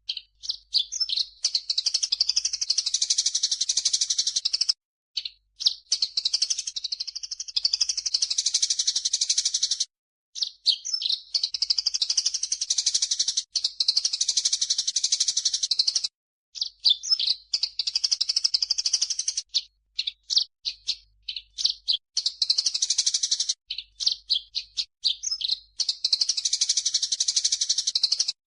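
Recorded song of cucak jenggot (grey-cheeked bulbul) combined with Eurasian tree sparrow chirps, played as a bird-song tutor track. Each phrase opens with quick sharp chirps and runs into a dense, high chattering trill a few seconds long. The phrase repeats about six times with short gaps.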